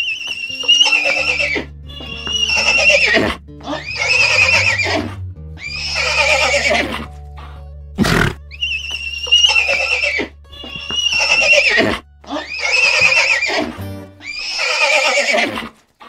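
A series of high-pitched animal calls, about one every two seconds and each about a second long, over background music with a low steady bass line.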